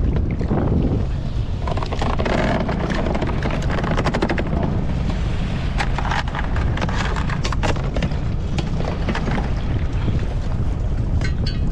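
Heavy wind buffeting the microphone in a small boat, a steady low rumble. Over it, a scattered run of clicks and knocks starts a few seconds in.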